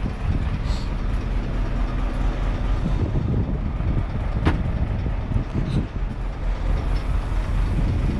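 Scania truck's diesel engine idling steadily, with one sharp click about four and a half seconds in.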